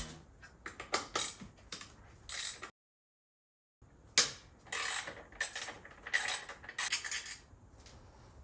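Metal hand tools clicking, rattling and clinking in short irregular bursts while working on a motorcycle engine's side cover. The sound cuts out completely for about a second near the three-second mark, then the clatter resumes.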